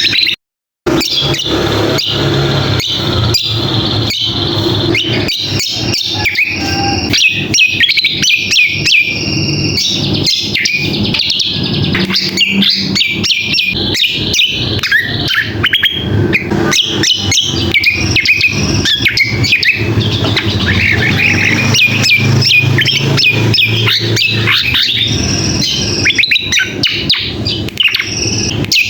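Recorded song of a cucak kombo: dense, busy chirping and chattering phrases, used as a lure to get caged birds singing. The audio cuts out briefly just under a second in.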